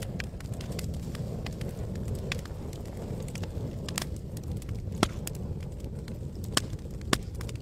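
Campfire burning: sharp, irregular crackles and pops of burning wood over a steady low rumble, with the loudest pops about five seconds in and twice near the end.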